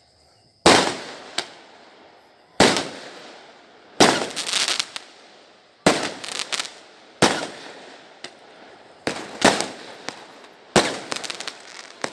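Fireworks exploding: loud bangs every second or two, each fading away in a rolling echo, some followed by quick crackling clusters.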